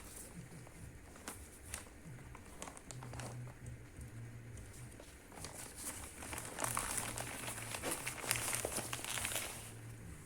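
Food wrapping crinkling and rustling as it is handled, with scattered small clicks; the crinkling is densest and loudest from about six seconds in until shortly before the end.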